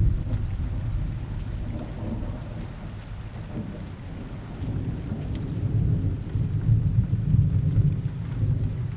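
Rain with a low rumble of rolling thunder that eases a few seconds in, then swells again for several seconds.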